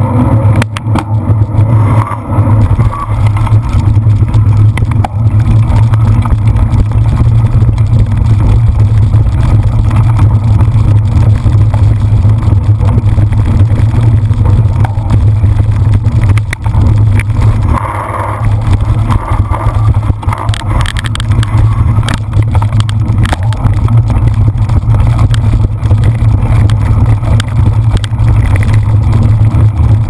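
Loud, steady wind rumble buffeting the microphone of a camera carried along on a cyclocross bike at racing speed, with scattered knocks and rattles from riding over rough ground.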